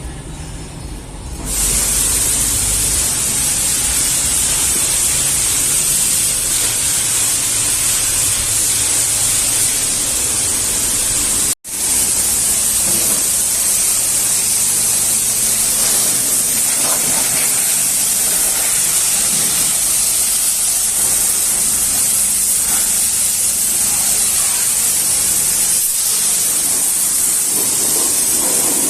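High-pressure washer spraying water onto a car, a loud steady hiss that starts about a second and a half in. It cuts out for an instant near the middle.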